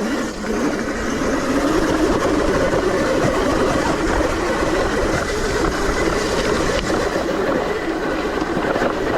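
ETM RTR electric dirt bike ridden along a rough trail: a faint motor whine rising and falling with speed over a steady rumble and rattle of the bike on the dirt.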